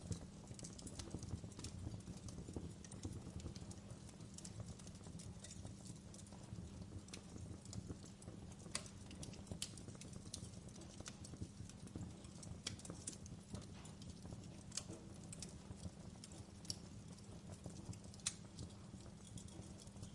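Wood fire crackling in a fireplace: irregular sharp pops and snaps, a few louder than the rest, over a low steady rumble of the burning fire.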